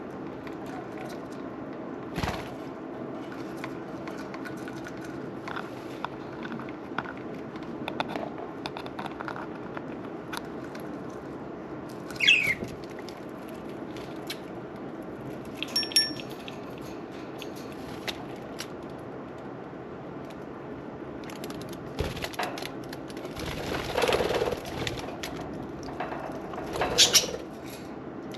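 Budgerigars calling now and then, with single chirps and louder squawks near the end, over a steady low hum and hiss from the running water fountain.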